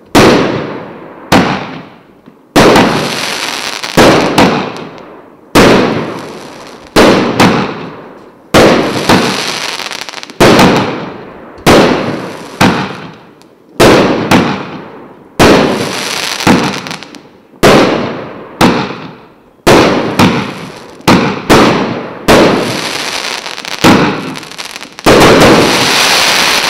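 A 19-shot, 1-inch fireworks cake firing one shot about every one and a half seconds: each is a sharp bang followed by a hissing tail that fades away. Near the end a louder, longer burst runs on with a steady crackle, the finale volley of several shots fired at once.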